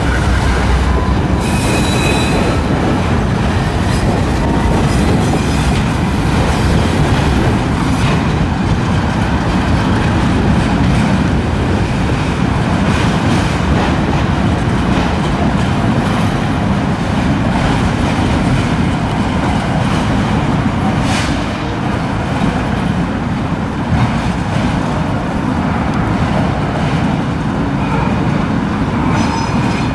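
Freight train of bi-level autorack cars rolling past close by behind a GE diesel locomotive: steady rumble and clatter of steel wheels on the rails. Brief high wheel squeals about two seconds in and again near the end.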